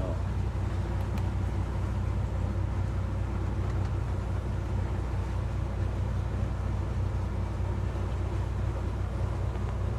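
Motor yacht's engine running steadily under way, a constant low hum.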